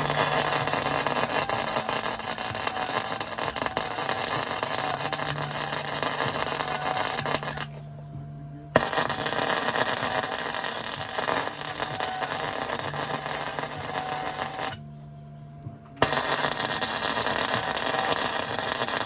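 Electric arc welding: steady dense crackle of the arc as a gear is welded onto scrap steel, in three long runs broken by two short pauses about 8 and 15 seconds in, with the welder's low steady hum heard in the gaps.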